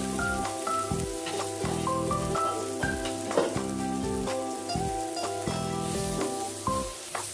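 Chopped onions and tomatoes sizzling in oil in a nonstick frying pan, with a spatula stirring and scraping the pan toward the end.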